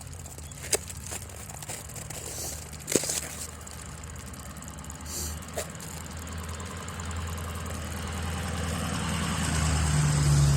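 A motor vehicle's engine running with a steady low hum that grows louder toward the end as it draws near. Two sharp clicks stand out, about a second in and three seconds in.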